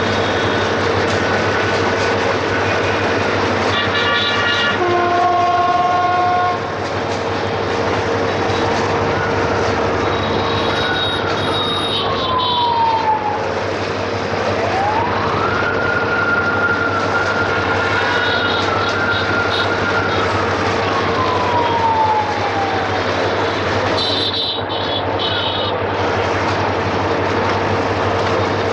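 Diesel freight train running, with a steady locomotive engine drone and the continuous noise of rolling wagons. A tone rises about halfway through, holds for several seconds, then slides down in pitch.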